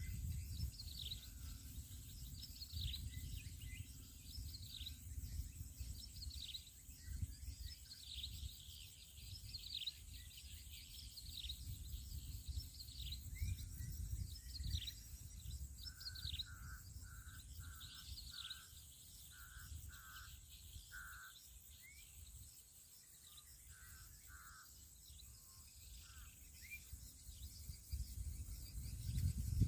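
Birds calling outdoors: many short, quick falling chirps repeat throughout. In the middle of the stretch a second bird joins with a run of short, clear repeated notes. Beneath them are a steady high insect hum and a low rumble.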